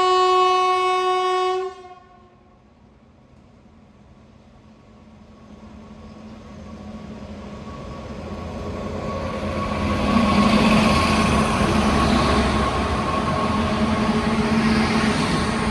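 Indian electric train horn sounding one long steady blast that cuts off near two seconds in. Then the train's running noise swells steadily as it approaches and passes at speed, loudest in the last few seconds.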